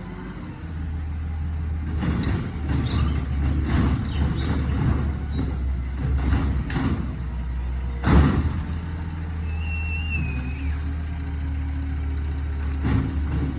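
Garbage truck engine running steadily while a bin is lifted and emptied: a run of clattering knocks as trash falls into the hopper, one loud bang, then a brief squeal.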